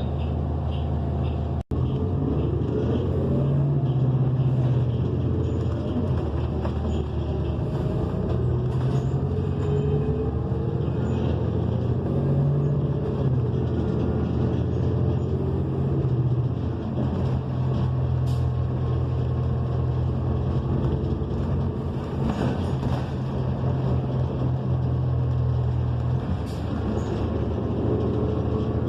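Cummins Westport ISL G natural-gas engine and Allison B400R automatic transmission of a New Flyer XN40 transit bus running under way, heard from inside the cabin, with no air conditioning covering it. A rising whine over the first several seconds as the bus pulls up through its gears, then a steady drone with road noise.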